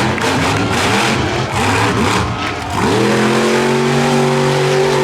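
Monster truck engine running hard with uneven throttle, then about three seconds in it revs up sharply and holds at a steady high pitch.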